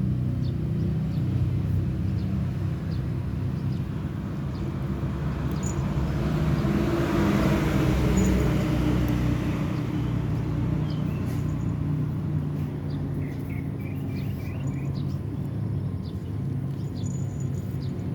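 A steady low motor rumble, like a vehicle engine, swelling louder about halfway through and then fading back, with a few faint short chirps near the end.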